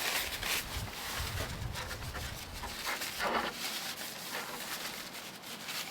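Wind buffeting the microphone with a low rumble for the first few seconds, over a steady hiss of hard rain, with a short rustle of something being handled about three seconds in.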